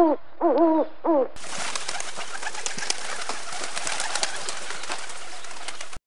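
Bird calls: a quick series of short pitched notes, each rising then falling, for about a second. About a second and a half in, a dense hiss full of quick ticks takes over and cuts off suddenly at the end.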